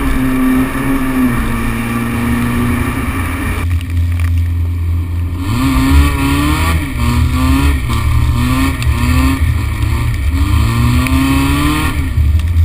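Škoda 105L's rear-mounted four-cylinder engine under way. It runs steadily at first, then from about halfway through it is revved in a string of short rises in pitch, each dropping back as it changes gear or lifts off, with a last longer rise near the end. Road and wind noise on an outside-mounted camera runs underneath.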